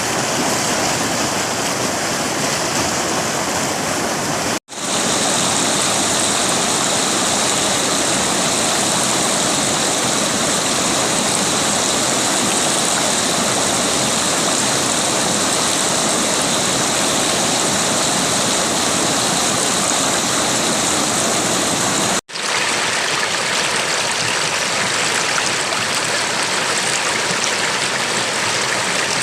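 River water flowing over stones, a steady rushing with no let-up, broken twice by a split-second gap where the recording is cut.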